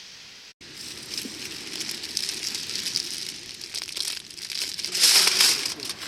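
Aluminium foil crinkling and crackling as it is handled and folded, with bursts of louder rustling about five seconds in.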